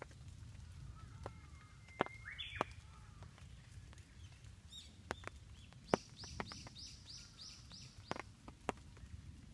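Wild songbird calling: a short rising call about two seconds in, then a quick run of about eight falling high notes about six seconds in. Scattered sharp ticks sound throughout.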